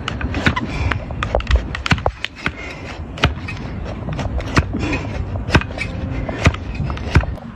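Hoof trimming on a donkey's overgrown hoof: irregular sharp clicks and knocks of the tool against hard hoof horn, over a steady scraping noise.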